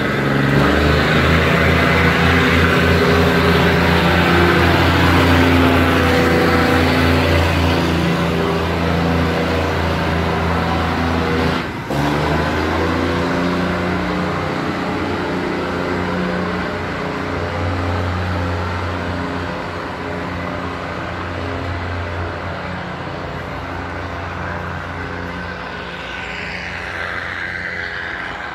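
Diesel passenger train pulling out of the station, its engine running in a steady low drone that shifts in pitch and fades gradually as the train leaves. A single sharp knock comes about twelve seconds in.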